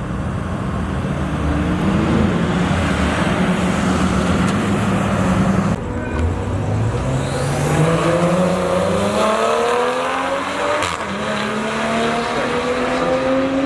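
Two drag-racing cars, a Mustang and a BMW, held on a steady engine note. About six seconds in, the engines accelerate hard, their pitch climbing again and again through the gear changes as they run down the strip.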